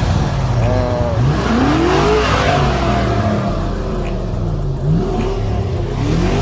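Car engine being revved several times, its pitch climbing with each blip, with a few small exhaust pops in between.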